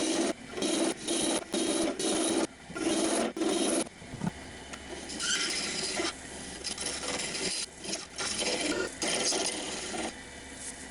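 Turning tool cutting into wood spinning on a lathe, in short scraping passes about half a second long for the first four seconds, then longer, more irregular cuts.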